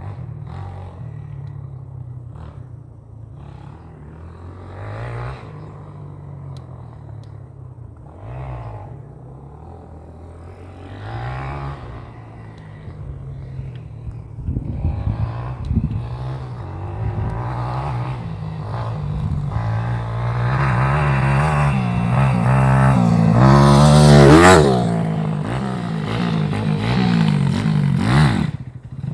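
150cc four-stroke pit bike engine revving up and down as it is ridden, the pitch rising and falling through the throttle changes. It grows louder as the bike comes closer, is loudest about three-quarters through, then drops away.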